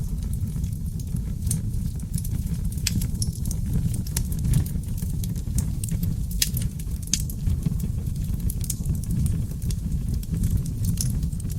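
Oak logs burning in a fireplace: a steady low rumble of flames with frequent, irregular crackles and sharp pops, a few louder pops a third and two thirds of the way through.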